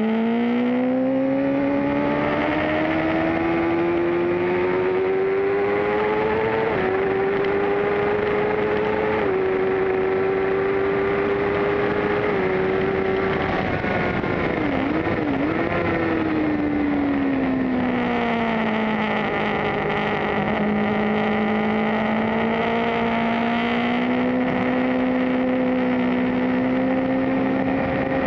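Suzuki GSX-R750's inline-four engine pulling hard at high revs, with wind rush over the bike. The pitch climbs for several seconds and drops a step three times as the rider upshifts. Around the middle the revs dip and fall away as the bike slows for a corner, then hold and climb gently again, easing off near the end.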